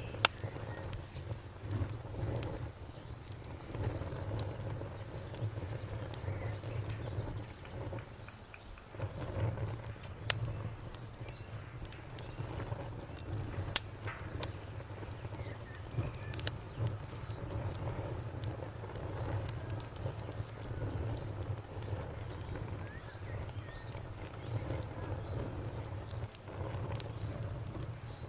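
Campfire crackling, with scattered sharp pops over a low steady rumble of burning wood. Crickets chirp in a fast, even trill throughout.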